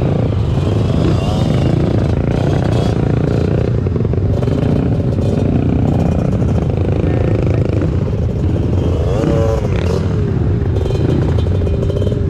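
Dirt-bike engines running, mixed with heavy low rumble from wind or handling noise on the microphone.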